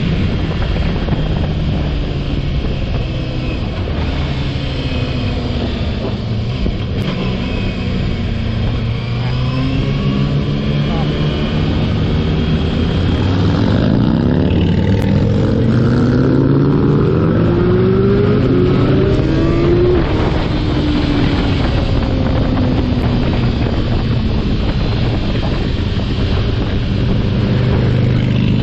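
Motorcycle engine running under way with wind noise on the microphone. Around the middle it revs up in several rising sweeps, as if accelerating through the gears, then settles to a steadier note.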